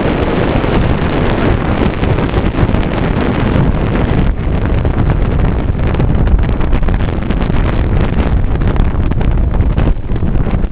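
Loud, steady wind rushing over the microphone aboard a moving boat.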